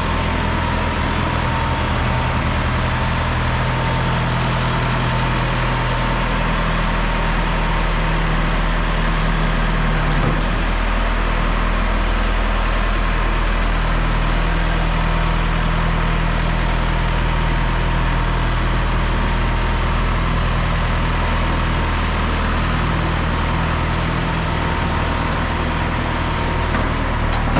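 1974 John Deere 2030 tractor engine running steadily, its note shifting slightly about ten seconds in.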